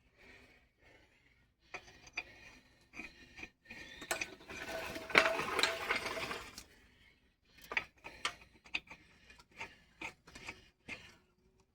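Hand tools working on metal during a truck wheel fitting: scattered clicks and ratcheting, with a denser, louder stretch of rattling about four to six and a half seconds in.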